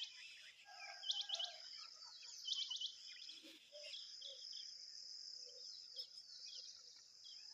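Quick bursts of three or four sharp, high bird chirps, twice in the first three seconds, over a steady high-pitched insect drone, with softer scattered chirps afterwards.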